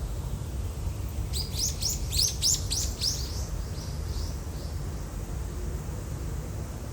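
A small bird chirping: a quick run of about a dozen short high notes about a second in, fading out over the next few seconds, over a steady low background rumble.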